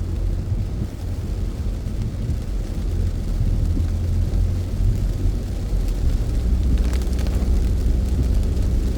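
Steady low rumble of a car's engine and tyres heard from inside the cabin while driving a wet road. The rumble drops to a lower steady pitch about six seconds in, with a few faint ticks soon after.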